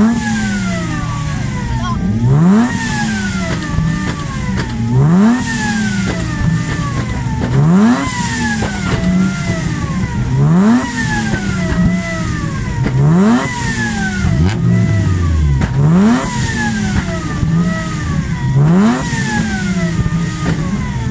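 Lexus IS200's 2.0-litre straight-six engine revved hard again and again, about eight times. Each blip climbs sharply in pitch and then falls back toward idle. The revving is done to make the exhaust shoot flames.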